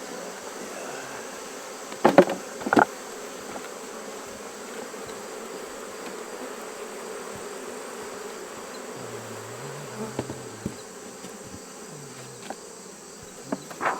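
Honeybees of a strong, active colony buzzing steadily around an opened hive, with two sharp knocks about two seconds in.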